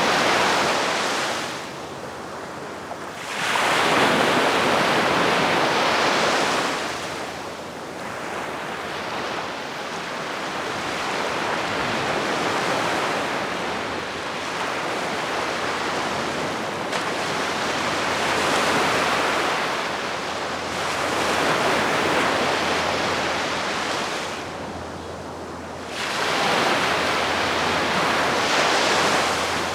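Calm sea waves washing onto the shore, the surf swelling and fading again every few seconds.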